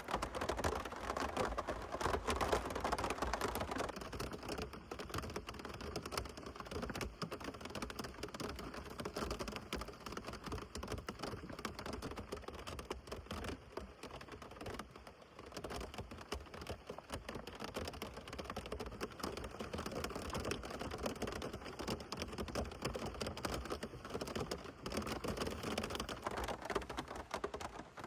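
Steady rain, with dense, fast drops ticking on a hard surface.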